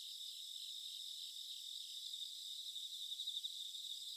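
Faint steady insect chorus, a continuous high-pitched trilling in the manner of crickets.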